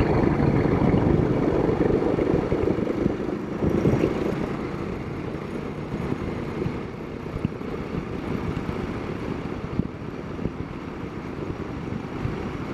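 Royal Enfield Himalayan 452's single-cylinder engine running at low revs as the motorcycle crawls along in 4th gear, mixed with wind noise on the microphone. The sound is louder for the first few seconds, then eases off a little.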